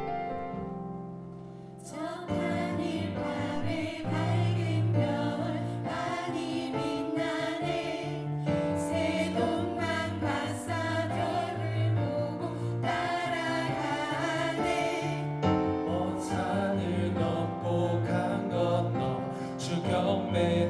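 Church choir singing with piano and band accompaniment. A quieter piano passage comes first, and the full ensemble enters about two seconds in.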